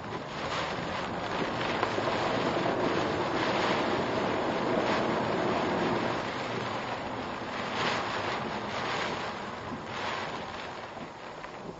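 Typhoon wind and driving rain beating against a car, heard from inside the cabin as a steady rushing noise. It swells over the first few seconds and eases off toward the end.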